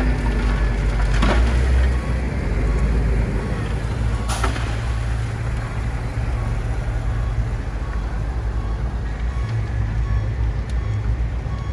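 Bulldozer's diesel engine running under load with a steady low rumble. Two sharp metallic clanks come about a second in and about four seconds in.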